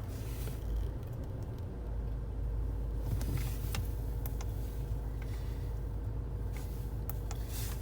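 Range Rover Evoque's 2.2-litre SD4 four-cylinder diesel idling, a steady low rumble heard from inside the cabin, with a few faint clicks.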